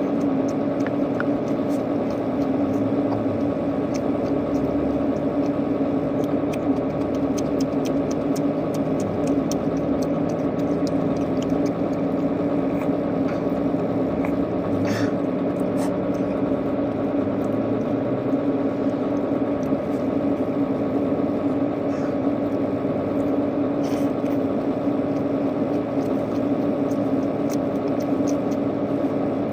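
Steady machine hum with a low tone and several higher ones, overlaid with scattered small clicks and crackles of eating and handling food.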